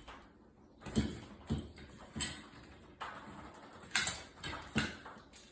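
Handling noise from ceiling fan wiring work: about five sharp clicks and knocks at irregular intervals over faint rustling.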